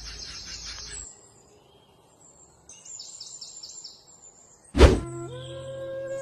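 Small birds chirping in short repeated high notes, with a quiet gap between two bouts. Near the end a sudden loud thump cuts in and music with long held notes begins.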